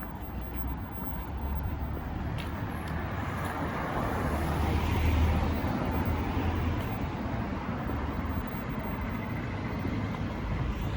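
Road traffic: a motor vehicle passes on the street, its low rumble and tyre noise building to a peak about five seconds in and then easing.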